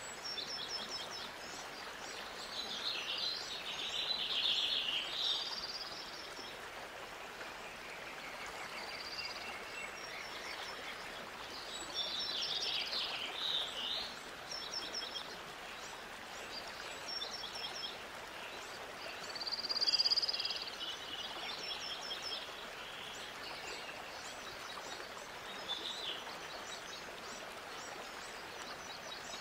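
Birds chirping and trilling on and off over a steady background hiss, with the loudest calls about four seconds in and again around twenty seconds.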